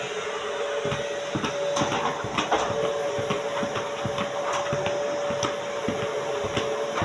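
Vacuum cleaner running steadily with a constant whine, while irregular knocks and taps sound over it.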